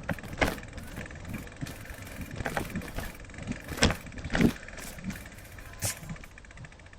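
Several sharp knocks and rattles, the loudest a little before the middle, over a steady low rumble of movement.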